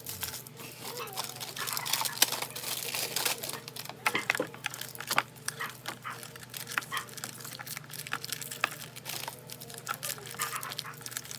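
Rustling and clattering of food packaging and containers being handled: many short clicks and crinkles over a steady low hum.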